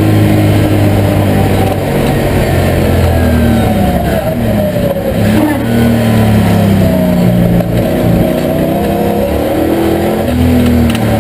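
TVR Tuscan V8's Ford 289 V8 engine running hard under race load, heard from inside the cabin. The revs drop about four seconds in, then climb again as the car accelerates, with another short dip near the end.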